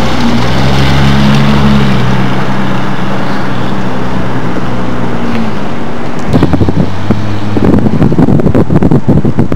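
Nissan GT-R's twin-turbo V6 running at low speed as the car pulls away, a steady drone that slowly falls in pitch. From about six seconds in, loud wind buffeting on the microphone takes over and covers it.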